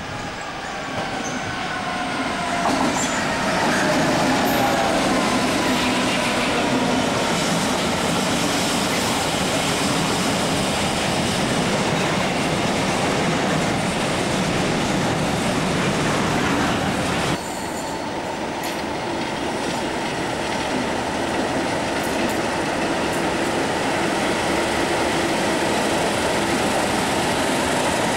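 A Freightliner diesel locomotive passes hauling a container train, its sound falling in pitch as it comes by, followed by the steady rumble of the container wagons rolling past. About two-thirds of the way in the sound cuts abruptly to the steady running of a pair of DRS Class 37 diesel locomotives.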